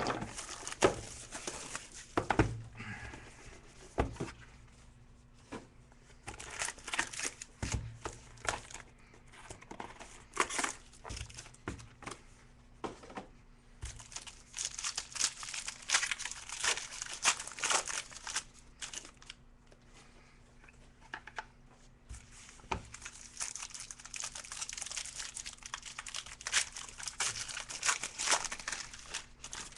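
Plastic wrapping on a sealed trading-card box crinkling and tearing in several spells as it is unwrapped and the box opened, with a few soft knocks from the box being handled.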